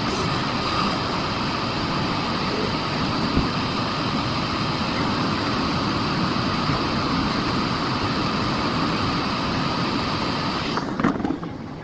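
Miele Blizzard CX1 bagless cylinder vacuum cleaner running steadily with a whine. Near the end its sound drops away sharply as the motor shuts down.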